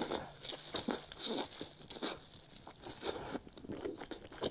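King crab being eaten: irregular crunching, cracking and tearing as the crab is bitten and chewed.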